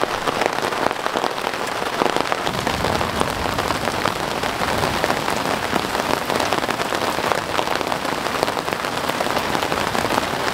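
Steady rain falling on a truck's fabric awning and the wet ground, a dense patter of individual drops.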